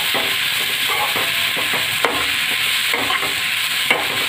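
Onion, green chilli and spice masala frying in oil in a steel kadhai, sizzling steadily, while a metal spatula stirs and scrapes around the pan. Sharp clinks of the spatula on the pan come about two seconds in and near the end.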